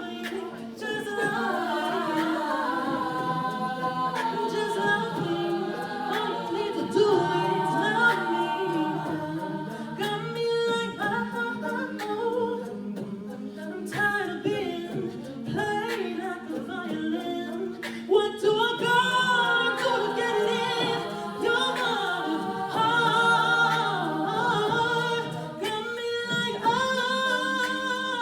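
An a cappella vocal group singing in close harmony, with no instruments. Several voices move above steady, held low notes.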